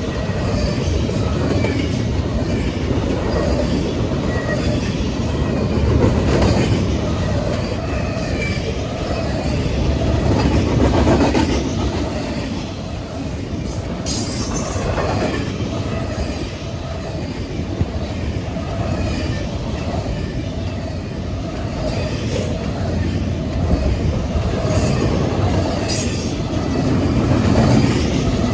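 Freight train cars rolling past on the main line: a steady, loud rumble and clatter of wheels on rail that swells and eases, with a few brief high-pitched wheel squeals partway through and near the end.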